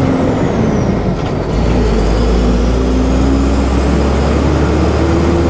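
Loaded dump truck's engine running steadily, heard from the cab while driving, with a brief dip about a second and a half in and a faint high whine slowly rising in pitch afterwards.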